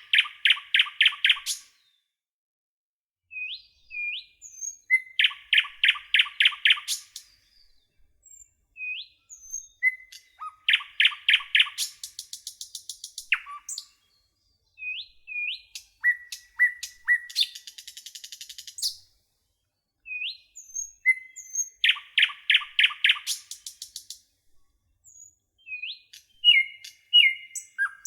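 A nightingale singing in separate phrases about every five seconds, with silent gaps between them. Each phrase opens with a few short upswept notes and then a fast, loud run of repeated notes. One phrase near the middle ends in a buzzier rattle.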